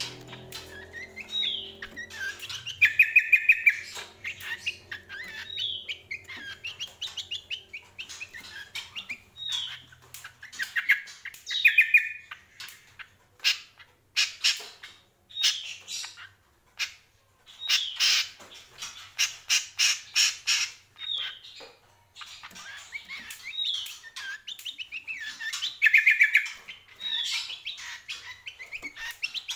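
Cucak kombo, a long-billed songbird of the sunbird family, singing in loud repeated phrases: each starts with a high falling whistle and runs into a fast trill, mixed with runs of sharp chip notes in the middle stretch.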